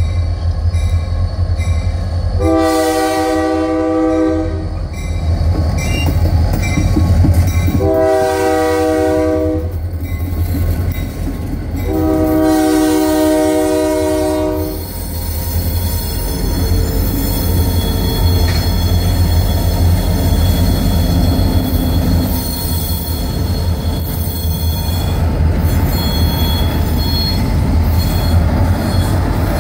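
Freight train rolling past close by, a steady low rumble of car wheels on the rails. Over it the locomotive horn sounds three blasts of about two to three seconds each. In the second half there is a faint high squeal from the wheels.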